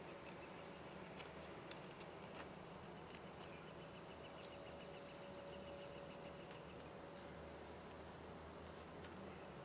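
Faint birdsong: a soft rapid trill in the middle and a short high chirp near the end, over a low steady hum, with a few light clicks in the first couple of seconds.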